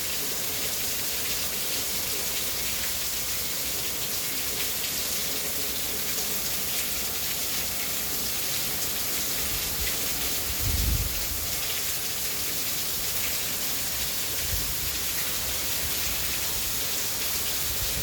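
Heavy rain falling steadily, a constant hiss of downpour. A brief low rumble about eleven seconds in.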